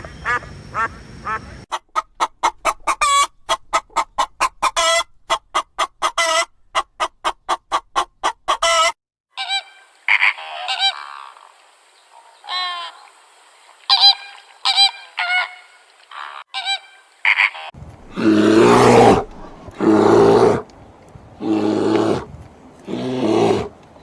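Domestic poultry calling: rapid runs of short repeated calls, then scattered higher, thinner calls, then loud drawn-out honks near the end.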